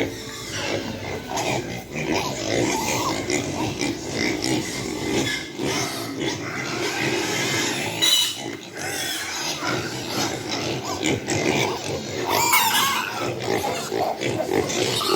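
Large White Yorkshire piglets grunting steadily.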